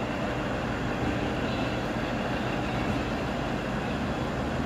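DEMU passenger train moving through the station, a steady, even rumble.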